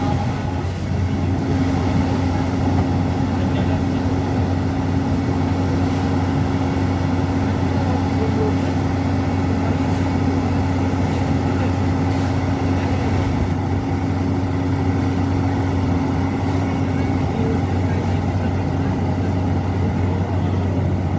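Vehicle engine running steadily, a constant low hum with no change in speed.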